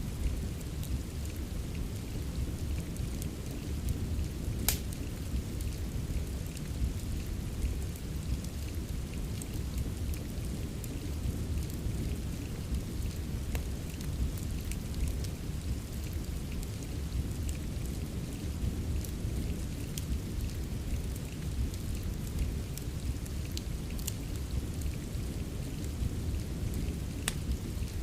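Steady rain with a deep low rumble underneath, and scattered sharp pops and crackles from a wood fire in a fireplace. The loudest pop comes about five seconds in.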